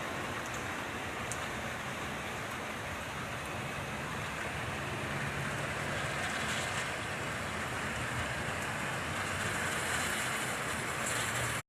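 Heavy rain falling steadily: an even rushing hiss that grows a little louder about halfway through.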